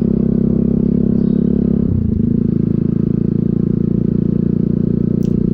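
Bajaj Pulsar NS motorcycle engine running steadily while being ridden, with a change in the engine note about two seconds in.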